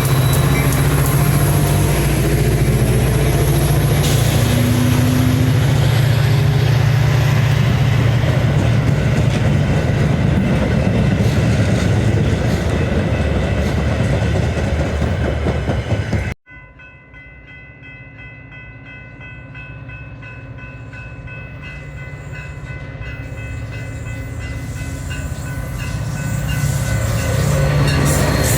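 A train passes close by with a heavy, steady diesel drone and the rush of the cars. About two-thirds of the way in the sound cuts off sharply. It is followed by a train heard faint at first, growing steadily louder as it approaches.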